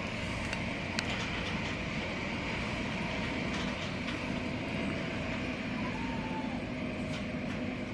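Steady running noise heard inside the cabin of an MTR Airport Express train travelling at about 110–120 km/h as it begins to slow. A low steady hum joins about three seconds in.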